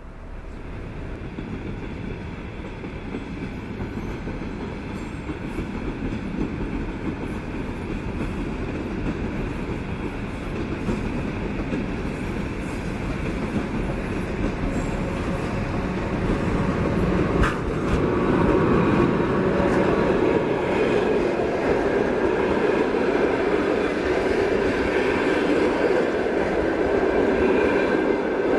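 Passenger train hauled by a ChS4T electric locomotive approaching and passing close by: a steady rumble of wheels on the rails that grows louder throughout, stepping up from about eighteen seconds in. There is a single sharp clack about seventeen seconds in.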